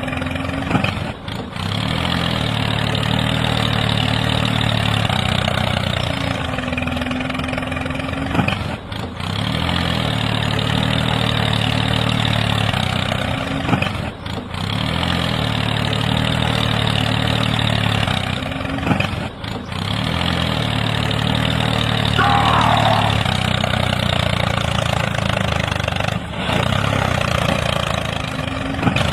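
Tractor engine sound running at idle, with a steady hum that repeats in a cycle and drops out briefly about every five to seven seconds.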